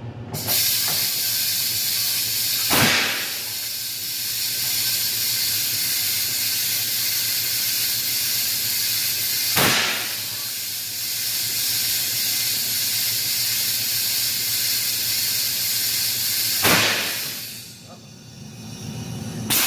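Compressed air hissing loudly and steadily as it is blown into a large truck tire to seat its bead on the wheel, with three brief louder surges. The bead does not seal, so the air keeps rushing out past it.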